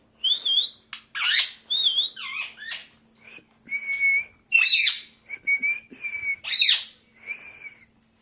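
Pet parakeet whistling and squawking: a string of short high whistled notes, some wavering and some held level, broken by sharp sweeping calls, with brief gaps between them.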